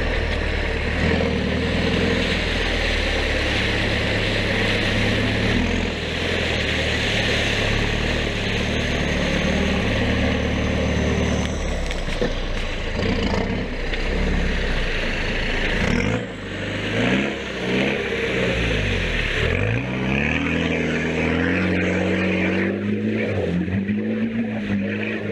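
Land Rover Defender 90's engine running under load as it drives through deep, muddy water. Around two-thirds of the way through the revs dip and rise again several times, then the engine holds a higher, steady pull.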